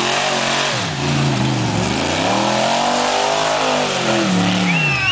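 Jeep engine revving hard under load as it climbs a steep dirt hill, the revs rising and falling several times, with the biggest surge in the middle, over a steady rush of noise.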